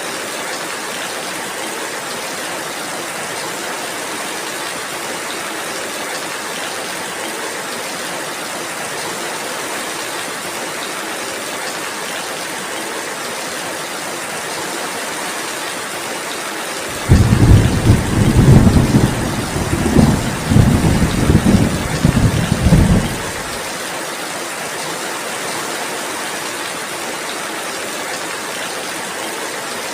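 Steady rainfall, with a loud, low rumble of thunder that starts suddenly a little past the middle and rolls on for about six seconds.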